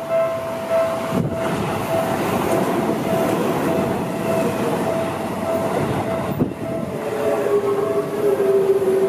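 Electric commuter train passing close by, a steady rumble of wheels on rail starting about a second in, with two sharp knocks, while a railway level-crossing bell keeps ringing. Near the end a lower whine joins in, falling slightly in pitch.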